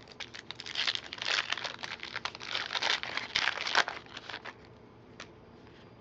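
Plastic trading-card pack wrapper crinkling for about three seconds as it is handled and torn open, then a single light click.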